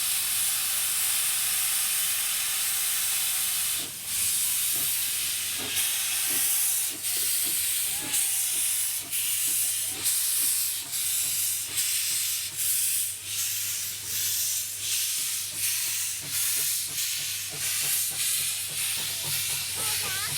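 Steam locomotive hissing steam, then chuffing slowly at about one exhaust beat a second from about four seconds in, as it moves under its own steam.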